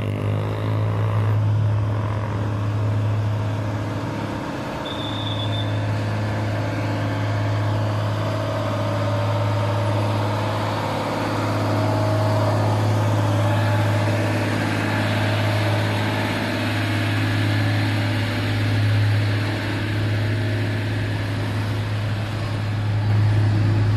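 Heavy truck's diesel engine running steadily as a low, continuous drone.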